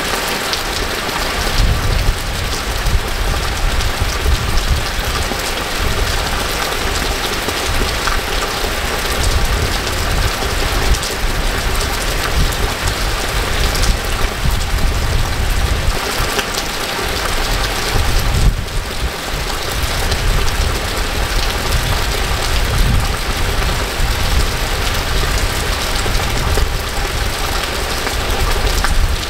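Steady rain falling on wet pavement and trees, with a low, uneven rumble underneath.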